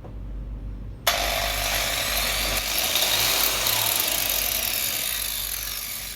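Grinder switched on with a click about a second in, then running at a low speed setting, a steady harsh whirring.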